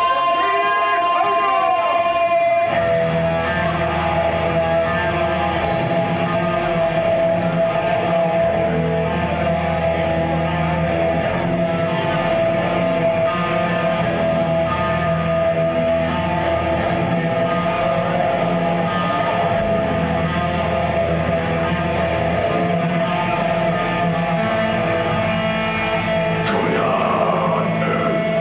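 Metal band playing live: a slow, sustained passage of held guitar tones over bass notes that change about every two seconds, with light cymbal ticks and a busier stretch near the end.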